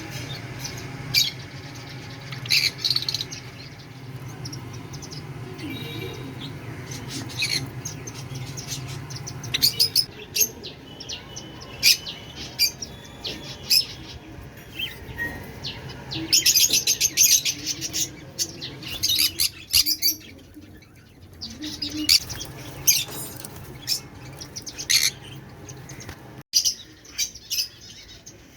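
A mix of caged aviary birds chirping: many short, sharp high calls overlapping at an uneven pace, busiest in the middle. Under them runs a low steady hum that stops near the end.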